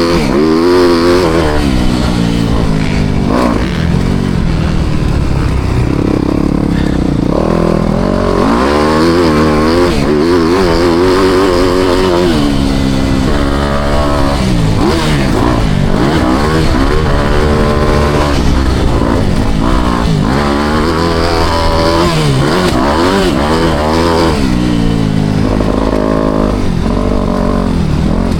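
Motocross bike engine revving up and dropping back over and over as it is ridden, the pitch climbing and falling every second or two.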